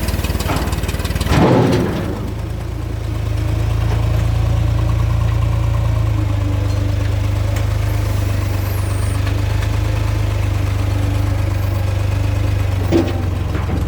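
Tractor engine running steadily at idle, with a brief louder burst of noise about a second and a half in.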